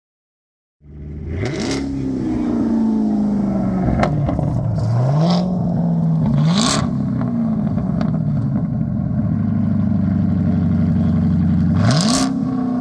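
Car engine revved repeatedly: the pitch jumps up sharply about a second and a half in, twice more around five and six and a half seconds, and again near the end, each time falling back toward a steady idle.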